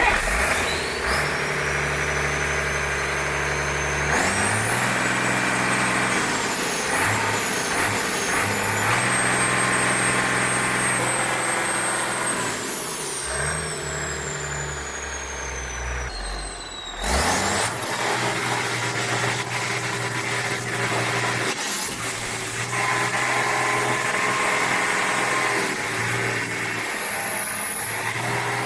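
Case 7240's Cummins 6TA-830 turbocharged inline-six diesel running, revved up and down several times, with a high turbo whine rising and falling with the revs.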